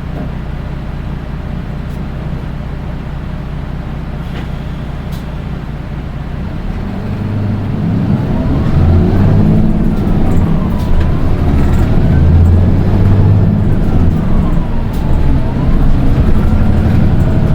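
Nissan Diesel Space Runner RM820 city bus engine heard from inside the cabin: a steady drone at first, then, from about seven seconds in, speeding up under load. A high-pitched whine rises and falls repeatedly with it; this bus is known for its unusually shrill engine sound.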